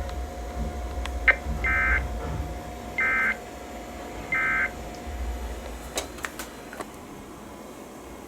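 NOAA Weather Radio's Emergency Alert System end-of-message code: three short, identical bursts of two-tone digital data about 1.3 seconds apart, marking the end of the warning broadcast. A sharp click comes just before the first burst, and a few faint clicks come near the end.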